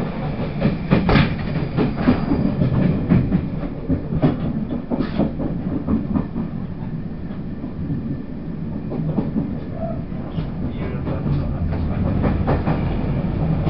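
Taiwan Railways push-pull Tze-Chiang express (E1000 series) running at speed, heard from inside a passenger car: a steady rumble of wheels on rail, broken by irregular clicks and knocks from rail joints and points.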